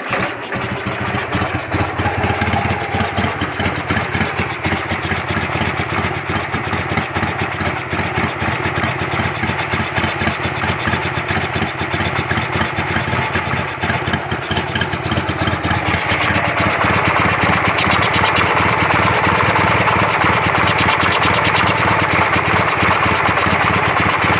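Carbureted motorcycle engine idling unevenly, shaking, with a whistle that seems to come from the carburettor; the idle won't settle. About sixteen seconds in the sound turns louder and brighter.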